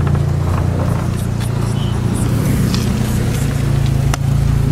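VW Golf IV 1.8T 20-valve turbocharged four-cylinder, fitted with a Garrett GT28 turbo and 3-inch downpipe, idling steadily through its exhaust.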